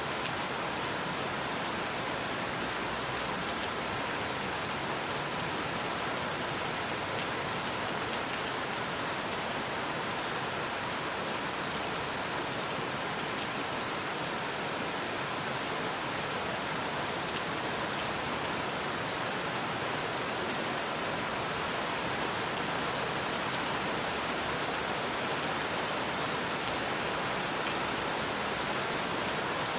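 Steady rainfall: an even, unbroken hiss with a fine patter of individual drops.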